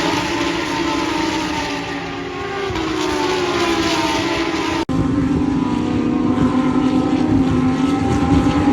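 Lamborghini Huracán Super Trofeo EVO2 race cars' V10 engines running on track, their pitch sliding down as they go past. The sound breaks off abruptly about five seconds in and picks up again as louder, steadier engine noise.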